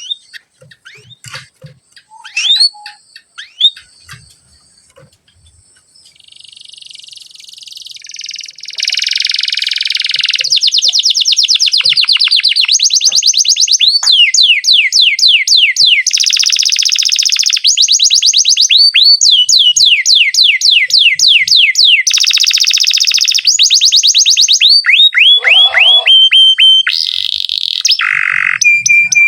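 Domestic canary singing: a few scattered chirps, then from about six seconds in a long unbroken rolling song of fast trills, each a run of rapid repeated notes, switching to a new trill every second or two.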